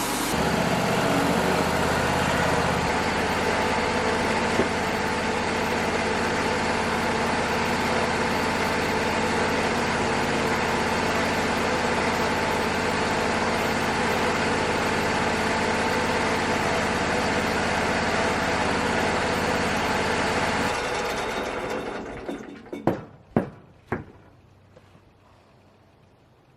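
Wood-Mizer LT35 portable sawmill running steadily, then shutting down and winding to a stop about 21 seconds in. Three sharp knocks follow a couple of seconds later.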